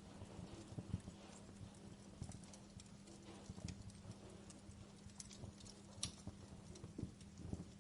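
Wood fire crackling in a fireplace: irregular snaps and pops, a sharper one about a second in and another around six seconds, over a faint steady hum.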